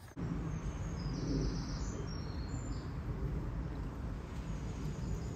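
Small birds chirping, a few short high chirps mostly in the first half, over a steady low outdoor background rumble.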